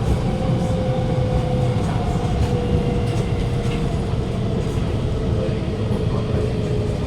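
Alstom Movia R151 metro train heard from inside the carriage: a steady rumble of the wheels on the track, with the traction motor's whine slowly falling in pitch as the train slows.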